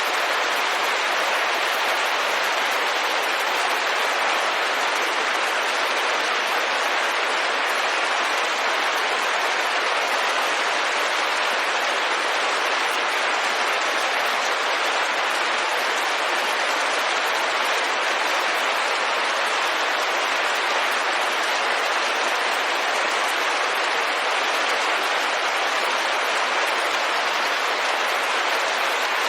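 Steady rain falling on a window, an even, unbroken hiss of drops with no single strikes standing out.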